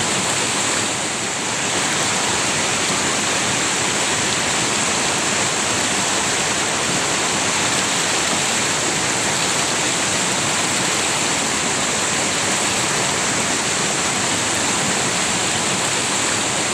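River water rushing steadily, a dense even hiss with a bright high edge, dipping slightly in level about a second in.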